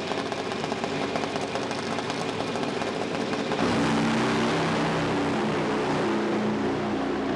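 Car engine sound at a drag strip: a rough, rapidly pulsing engine note, then about halfway through a louder, smoother engine sound with strong steady tones that change pitch in steps.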